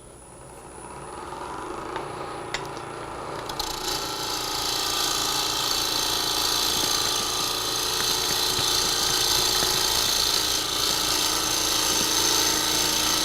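Bowl gouge cutting a spinning maple blank on a wood lathe to true it round, over the lathe's steady hum. The cut starts light and uneven, then from about four seconds in becomes a steady, strong hiss of shavings coming off.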